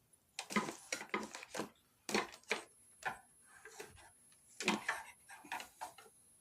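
Handling noise: several quick clusters of knocks and rattles, like hard objects being moved on a wooden surface.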